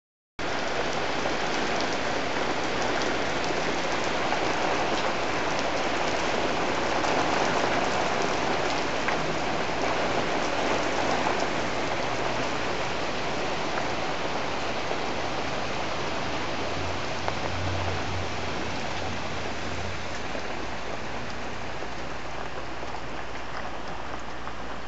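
Heavy rain falling steadily, a dense even patter of drops on hard outdoor surfaces, cutting in suddenly about half a second in.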